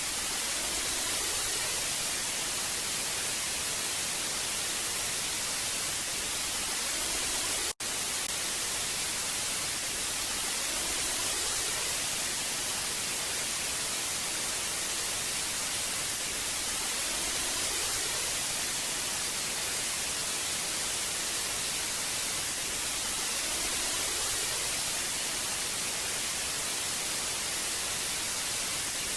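Old television static: a steady hiss, strongest in the high range. It cuts out for an instant about eight seconds in.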